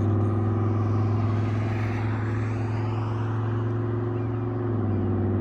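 Cammed 2008 Impala SS's 5.3-litre LS4 V8 droning steadily through its exhaust while cruising, its low note shifting slightly near the end.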